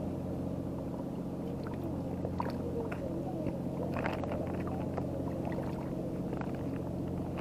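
A boat's engine idling nearby with a steady low hum. A few light clicks and knocks come over it about halfway through.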